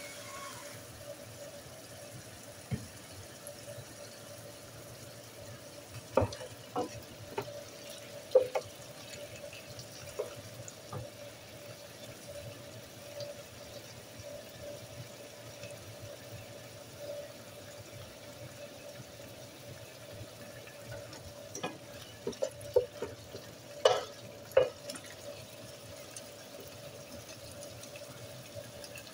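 Diced chicken breast sizzling and bubbling gently in sesame and vegetable oil and its own juices in an electric skillet, over a steady faint hum. A few scattered knocks and clicks, with a cluster near the end.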